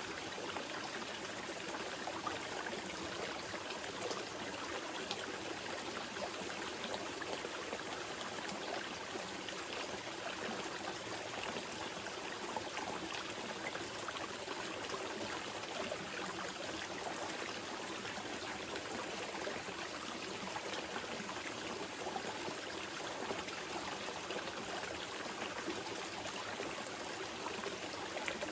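Small mountain river flowing steadily, a constant gentle rush with light trickling and splashing.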